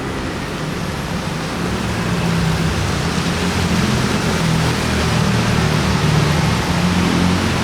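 Road traffic on a wet city street: vehicle engines humming under a steady hiss of tyres and rain, growing gradually louder.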